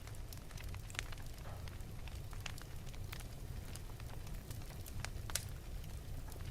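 Wood fire burning in an open fireplace, crackling with irregular sharp pops and snaps over a steady low rumble of the flames; one louder pop about five seconds in.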